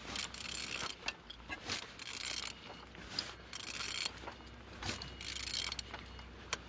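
Hyundai D4EB diesel engine being turned over by hand: a series of short mechanical rasping strokes with clicks between them, about six in all. The engine turns freely.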